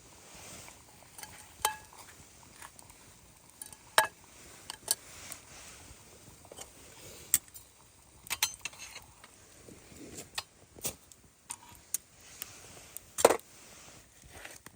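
Camp cookware and utensils being handled: irregular metal clinks and knocks, a few ringing briefly, the loudest about four seconds in and again near the end.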